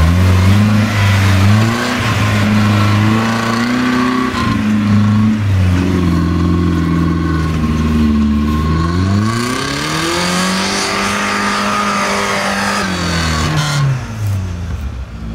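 Off-road 4x4's engine revving hard under load as it drives through grass and up a steep dirt slope. The revs rise and fall several times with the throttle, climbing about two thirds of the way through and easing off near the end.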